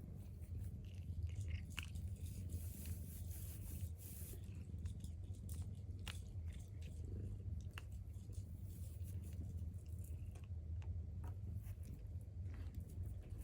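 Cat at play with a toy: scattered small clicks and crunchy scuffles, like biting or pawing at it, over a steady low hum.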